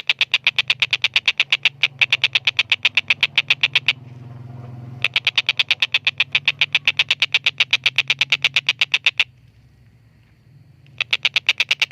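Collared kingfisher (tengkek buto) calling in long, rapid runs of harsh, evenly repeated 'kek' notes. The runs break off briefly after about four seconds and again near the end before starting up once more.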